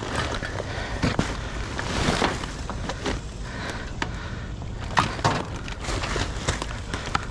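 Scattered knocks, clicks and scraping of junk being shifted and handled in a dumpster, over a steady low rumble.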